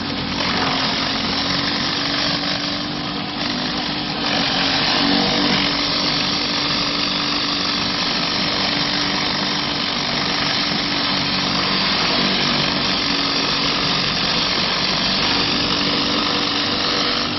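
Pressure washer cleaning concrete with a surface cleaner: the engine-driven pump runs with a steady hum under the continuous hiss of high-pressure water on the concrete, growing a little louder about four seconds in.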